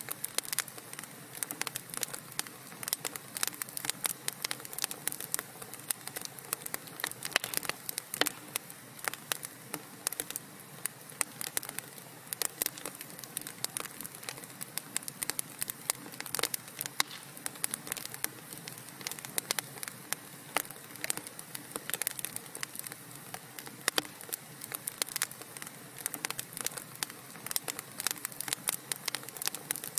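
Wood fire crackling in a fireplace: a dense, irregular run of small pops and snaps over a soft steady hiss.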